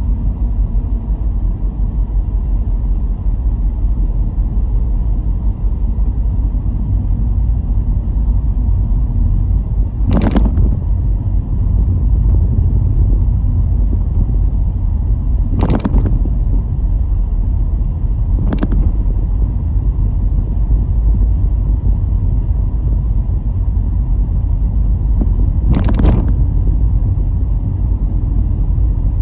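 Car driving on the road: a steady low rumble of tyres and engine, broken by four short, sharp knocks spread through the stretch.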